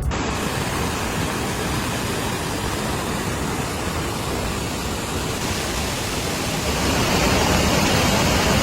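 Steady rushing of fast-moving water, growing louder about seven seconds in.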